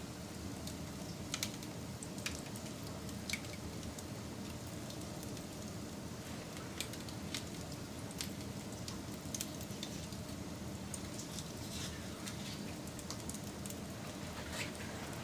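Campfire burning with a steady low rush, broken by irregular sharp crackles and pops of the burning wood.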